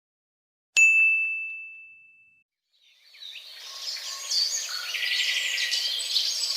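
A single bright, bell-like ding that rings out and fades over about a second and a half. From about three seconds in, many small birds chirping together.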